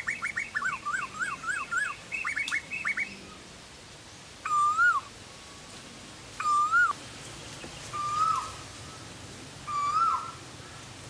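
Forest birdsong: a quick chattering run of short notes in the first three seconds, then one clear whistled up-and-down note repeated about every two seconds.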